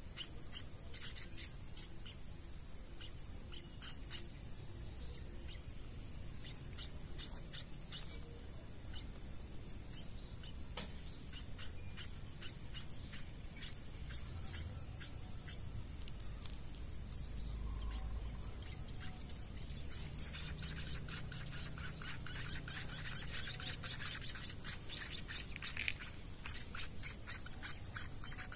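Nestling munias begging while being hand-fed: scattered faint high chirps, then a rapid, louder run of high begging chirps near the end.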